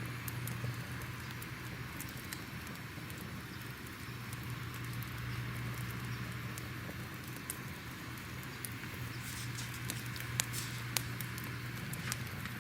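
Crackling fire: a steady hiss and low rumble with scattered sharp pops and snaps, a few louder ones near the end.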